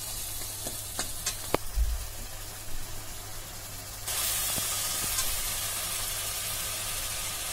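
Spiced onion-tomato masala sizzling in hot oil in a wok as it cooks down, with a steel ladle tapping against the pan a few times in the first two seconds. The sizzle gets louder about four seconds in.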